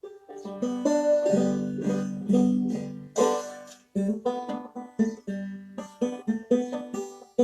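Banjo played clawhammer style: a quick run of plucked notes over ringing drone strings. It breaks off briefly about four seconds in, then picks up again.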